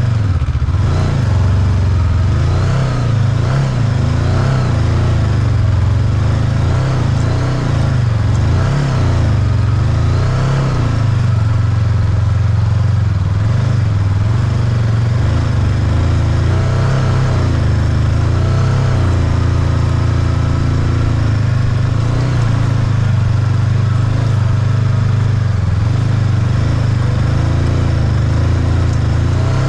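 Motorbike engine running while being ridden, its pitch rising and falling again and again with the throttle, over a heavy steady low rumble.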